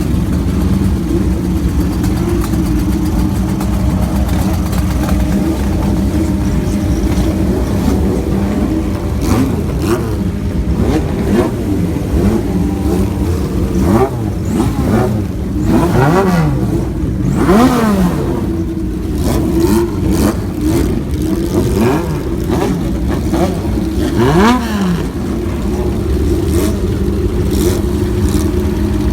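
Classic air-cooled inline-four motorcycle engines, a Kawasaki Z900 and a Honda CB750, running at idle. The throttle is blipped in short revs several times, mostly around the middle and once more near the end.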